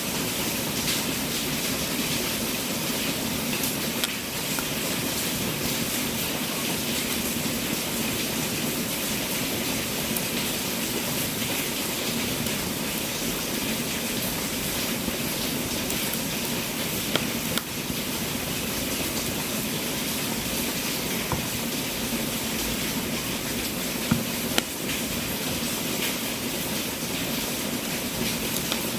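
Wood fire burning in a fireplace: a steady hiss with scattered crackles, and a few sharper pops in the second half.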